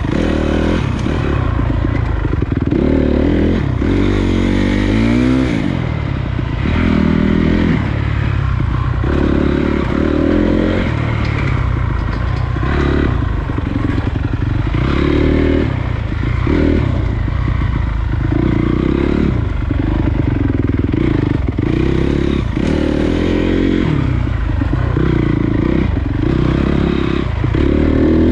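Honda CRF250 dirt bike's single-cylinder four-stroke engine running while riding, the revs rising and falling over and over as it is throttled and shifted.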